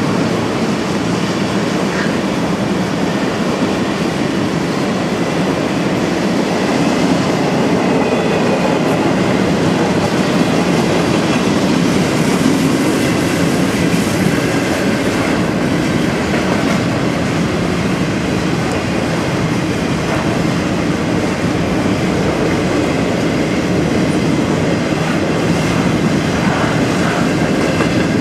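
Cars of a long CSX circus train rolling steadily past a grade crossing, wheels running over the rails without a break.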